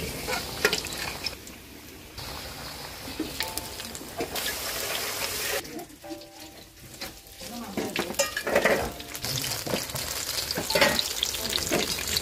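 Banana fritters sizzling as they fry in hot oil, with occasional short clicks of a utensil in the pan.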